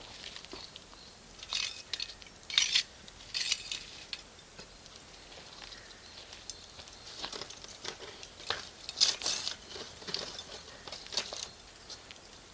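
Wood-and-charcoal fire crackling, with scattered sharp pops from the burning Iwate cut charcoal coming in two clusters, one early and one in the second half.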